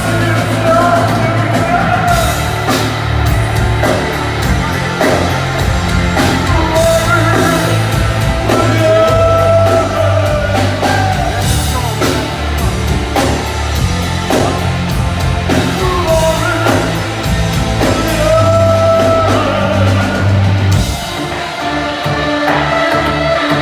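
Live rock band playing, with drums, bass and a sung melody line in long held notes. About 21 seconds in, the bass and drums drop out, leaving a thinner sound.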